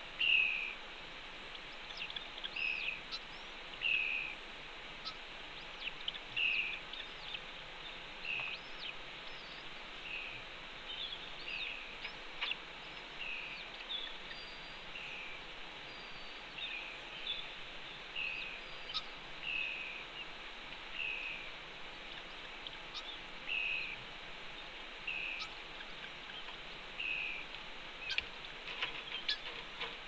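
A bird chirping over and over, short notes about every one and a half seconds, over a steady hiss, with a few faint scratchy clicks near the end.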